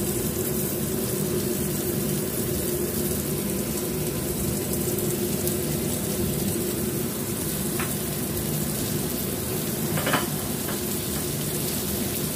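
Cornstarch-dusted soft tofu slices frying in hot oil in a wok: a steady sizzling hiss, with a couple of brief light clicks near the end.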